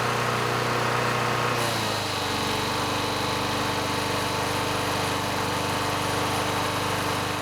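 Small single-cylinder lawn mower engine running steadily; about two seconds in its speed drops slightly and then holds at the lower pitch.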